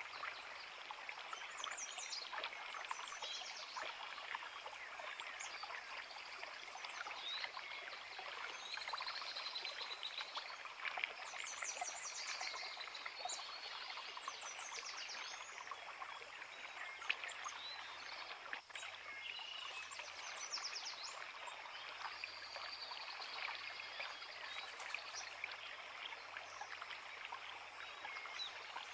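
Forest creek running steadily, with birds singing short repeated phrases over it throughout.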